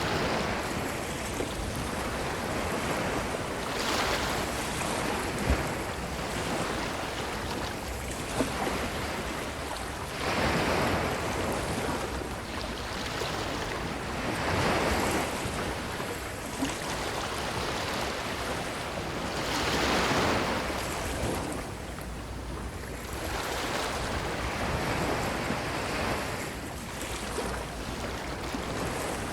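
Ocean waves washing onto a beach, the surf swelling and easing every few seconds.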